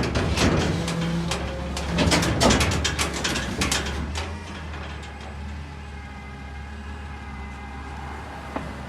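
Garbage truck running with a steady low engine hum, with a run of clattering knocks and rattles over the first few seconds that then settle into the engine running on its own.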